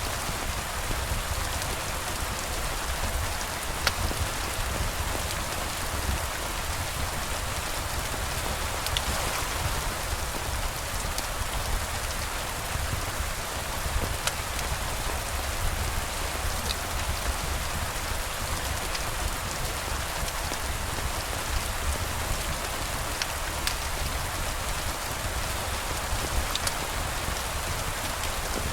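Steady, even rain falling, with a few scattered sharp ticks.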